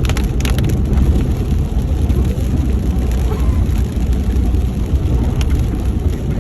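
Car driving along the road: a steady low rumble of engine and tyre noise, with a few short sharp clicks about half a second in and again near the end.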